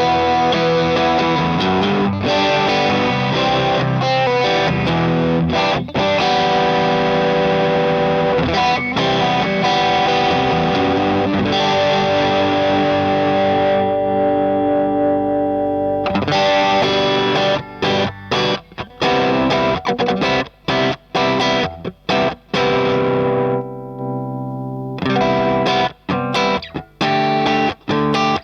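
Electric guitar played through a Madbean Drunken Dragon overdrive pedal, a clone of the Lovepedal Eternity, with its drive giving a distorted tone. Ringing chords for the first half, then short choppy chords with brief gaps between them, broken by one held chord about three-quarters of the way through.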